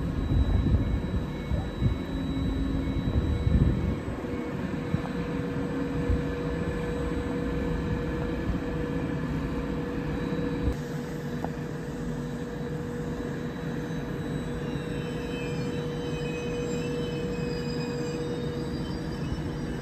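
Trenitalia Intercity train at the station: a steady mechanical hum with one held tone over a low rumble, louder in the first four seconds.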